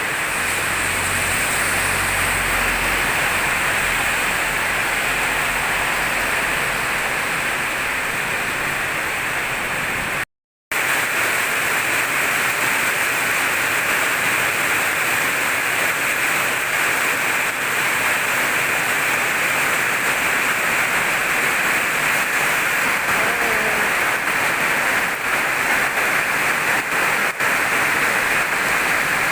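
Heavy rain pouring steadily, a dense even hiss. The sound cuts out completely for a split second about ten seconds in.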